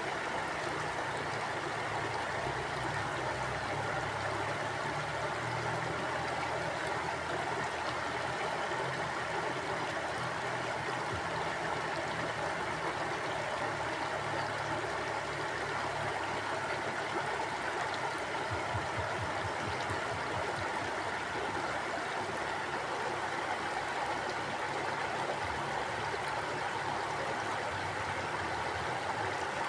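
Mountain river flowing over rocks: a steady, even rush of water with some gurgling, unchanging throughout.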